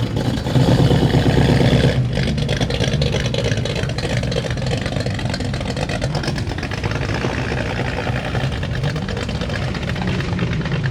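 Ford Mustang's engine running as the car pulls out and drives past, loudest in the first two seconds, then a steady lower engine note.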